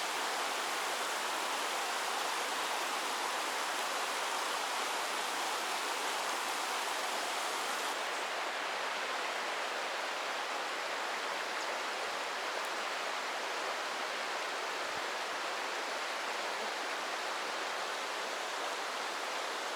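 Mountain creek water rushing steadily over rocks, an even hiss with no breaks; the highest part of the hiss drops a little about eight seconds in.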